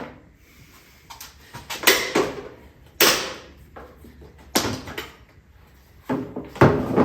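Tools and parts being handled at a workbench: a run of about five separate knocks and clatters, each ringing out briefly.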